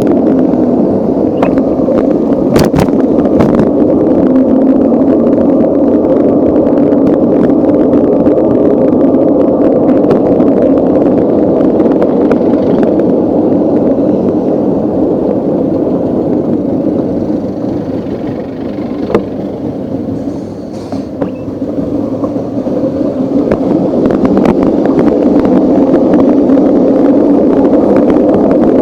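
Steady rushing of wind and road noise on a camera riding along on a moving bicycle, with a few sharp knocks in the first few seconds and a quieter stretch a little past the middle.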